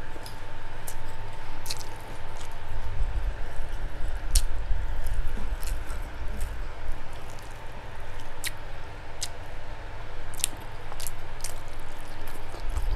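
Close-miked mukbang eating: wet chewing of fatty pork and rice eaten by hand, with irregular sharp smacking clicks from the mouth over a low, uneven chewing rumble.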